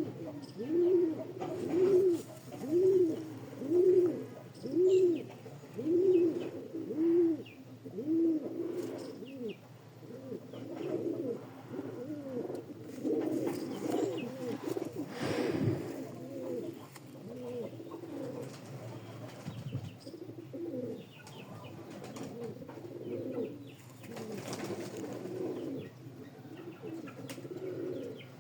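Domestic pigeons cooing. For the first eight seconds one bird's coos come about once a second, each rising and falling in pitch; after that several birds coo over one another.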